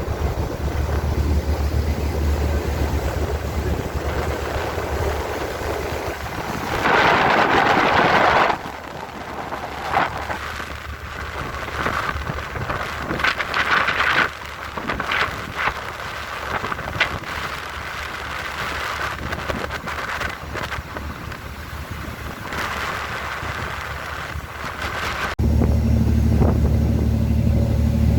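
Strong wind buffeting the microphone on a moving boat, over the low, steady drone of the boat's engine. The sound changes abruptly twice, where separate clips are joined.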